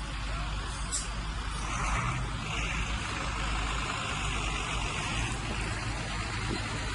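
Bulldozer's diesel engine running steadily with a low rumble, a higher grinding hiss rising over it for a few seconds in the middle.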